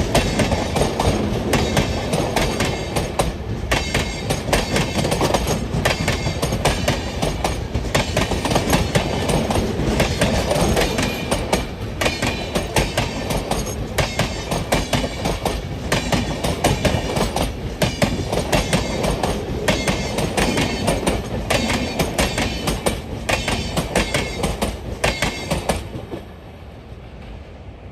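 Hatia Superfast Express passenger train running past close by, its wheels clattering over the rail joints in quick groups of clicks. The clatter stops suddenly near the end, as the last coach goes by, leaving a quieter rushing.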